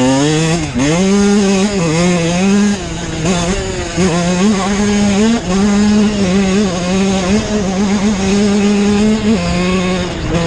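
Dirt bike engine running while ridden, its pitch dipping and then climbing about a second in, then holding mostly steady with small rises and falls as the throttle changes.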